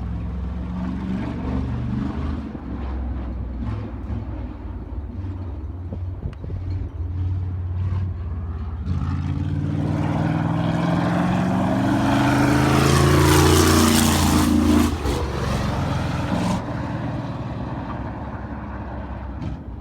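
Sprint car's V8 engine running laps: a steady drone that grows louder from about nine seconds in, passes close by around thirteen to fourteen seconds in with its pitch bending as it goes past, then drops back.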